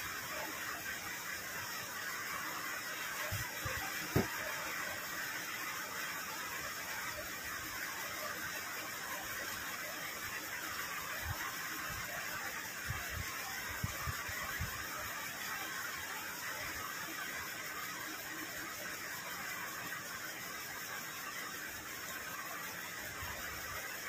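Steady hiss of rain falling, with a few soft low knocks from the table.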